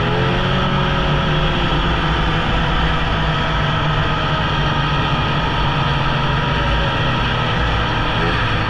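Polaris Indy snowmobile engine running steadily while riding, under a constant rush of noise.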